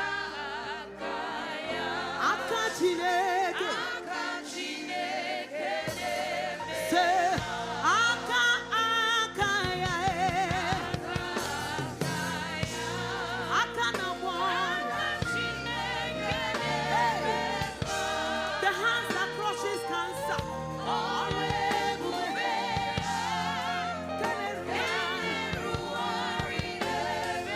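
Gospel praise music: voices singing with vibrato over an instrumental backing with a moving bass line.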